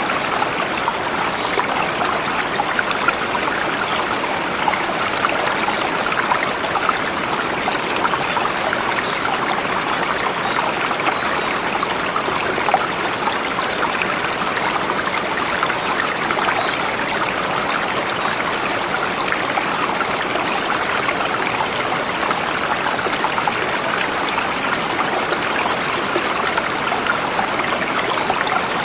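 Forest river flowing over rocks: a steady rush of water with fine splashing and bubbling, unchanging in level.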